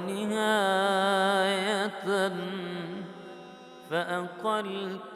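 Male voice chanting an Arabic devotional ibtihal unaccompanied in a melismatic style. It holds a long wavering note for about two seconds, then sings the word 'wa-nihāya' with quick ornamental turns near the end.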